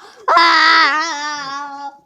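A child's voice giving one long, high-pitched wordless wail, held at a nearly steady pitch for about a second and a half.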